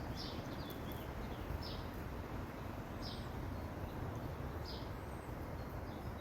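Birds chirping: a short call repeating about every one and a half seconds, with a few faint higher whistled notes, over a steady low outdoor background noise.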